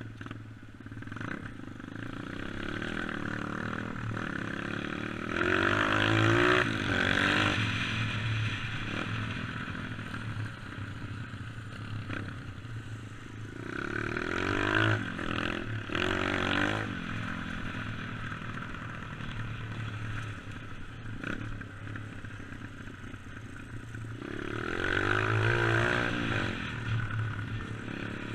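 Dirt bike engine running under way, revved up hard three times, a few seconds in, around the middle and near the end, its pitch climbing and dropping back between.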